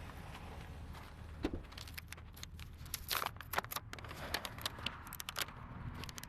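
Paper banknotes being handled and counted: a run of quick crisp flicks and rustles through the middle, over a steady low hum.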